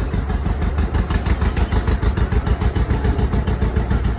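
Tractor engine running steadily, a low rumble with a quick pulsing beat.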